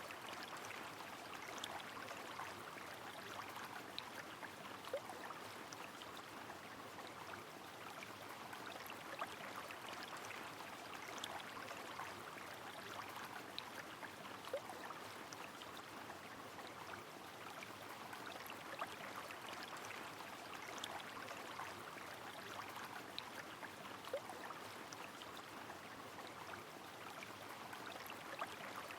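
Rain falling on a flowing river: a steady, even rush of water with many small sharp drip and patter ticks scattered through it.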